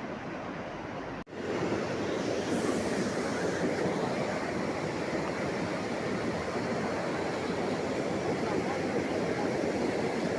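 Steady rushing noise that drops out for an instant about a second in and comes back louder.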